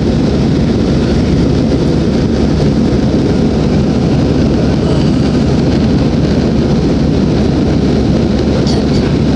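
Steady jet airliner cabin noise in flight: the engines and rushing air make an even, loud drone, heaviest in the low end.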